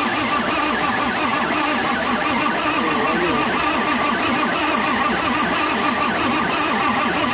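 Freshly overhauled Mitsubishi Fuso dump-truck diesel engine turning over on its starter, steady and even, as it is cranked to check that it turns freely and that oil pressure comes up to the rocker arms.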